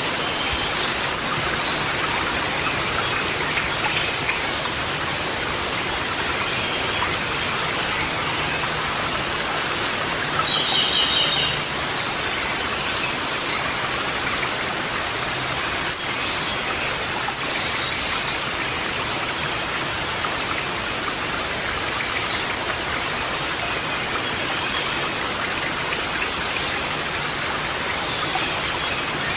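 Birds calling on and off, with short chirps and several brief harsh calls, over a steady rushing hiss.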